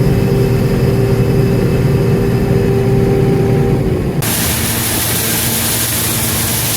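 Farm machinery engine running steadily under a constant load. About four seconds in, a loud steady hiss cuts in abruptly over a lower engine drone.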